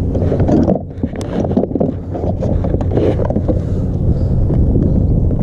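Wind buffeting the microphone on a kayak out on the water, a dense rumble with a steady low hum and scattered small clicks and knocks. The rumble dips briefly about a second in.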